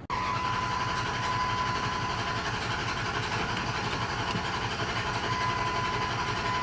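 Ram 1500 pickup's engine idling steadily just after a remote start, with an even low pulse and a thin steady high whine over it.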